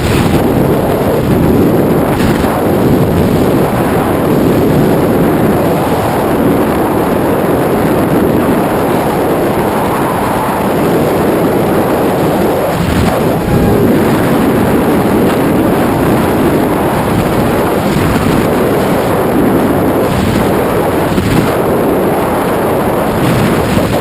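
Loud, steady rush of wind buffeting the microphone, typical of a skydiver's camera in freefall.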